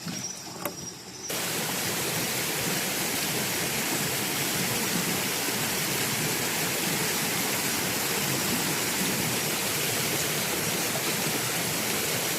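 Steady rushing water close to the microphone, an even hiss that cuts in suddenly about a second in and cuts off suddenly near the end.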